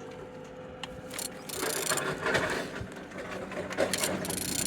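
A ratchet wrench turning over a removed N14 1.6 turbo petrol engine by hand at the crankshaft, with the pawl clicking and rasping. It gets louder about a second and a half in. This is a hand-turn check that the engine rotates freely.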